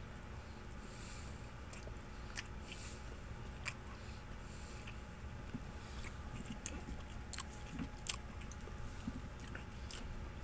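A man chewing a bite of dry, rotisserie-seasoned chicken meat strip: faint mouth clicks and smacks scattered throughout, over a low steady hum.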